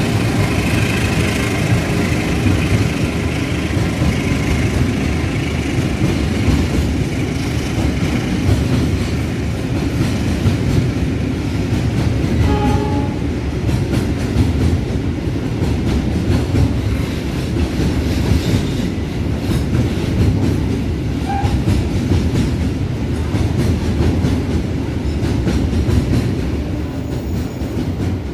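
Container freight train rolling past at close range, a steady heavy rumble with the wagons' wheels clattering over the rail joints.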